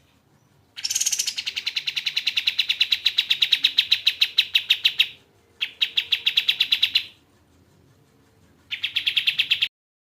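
Kapas tembak bird singing a loud, fast trill of rapidly repeated notes in three bursts: a long one of about four seconds, a shorter one, then a brief one near the end.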